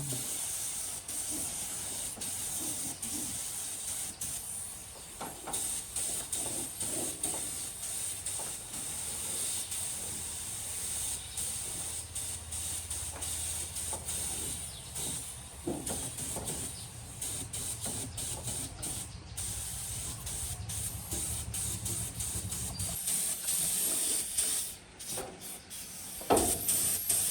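A steady spraying hiss, as of compressed air or spray, runs throughout. A low hum joins it from about ten seconds in and stops a few seconds before the end.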